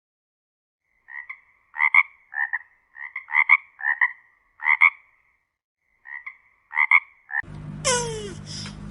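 An animal giving short, sharp calls in quick clusters, about a dozen over six seconds. Near the end a different animal gives a loud call that falls in pitch, over a steady background hiss.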